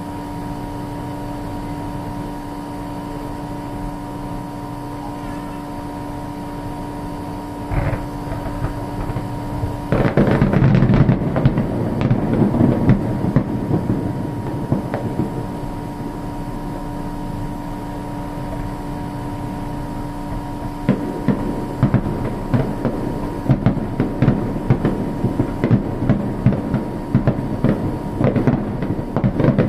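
Aerial fireworks: a steady hum with one bang about eight seconds in, then from about ten seconds a dense barrage of booming bursts and crackling. From about twenty seconds in, rapid sharp reports follow.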